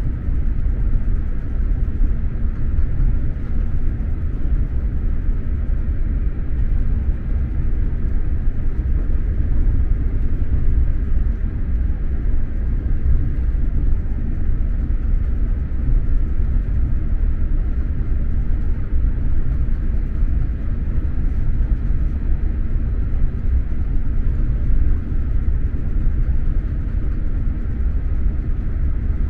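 Steady low rumble of an X2000 high-speed train running along the line, heard from inside a passenger carriage.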